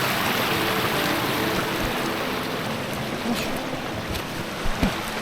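Water in a stream rushing steadily, with two sharp knocks near the end, like footsteps on rock.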